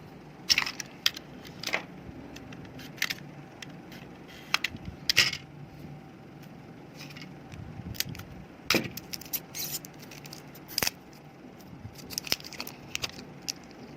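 Irregular metallic clicks, taps and short rattles of hand tools working on a single lithium-ion cell from a laptop battery pack, prying at its metal casing to open it.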